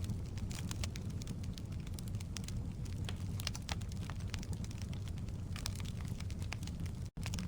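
Firewood burning in a fireplace, crackling with frequent small sharp pops over a steady low rumble. The sound cuts out for an instant near the end.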